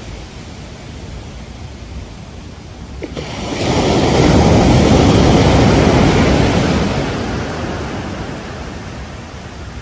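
Ocean surf at a beach: a wave breaks about three seconds in, rushes up loudest for a few seconds and then fades as it washes back. There is a steady low rumble of wind on the microphone.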